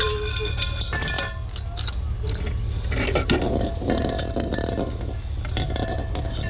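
Loose metal rattling and clinking, with squeaks, over a steady low rumble of a running vehicle.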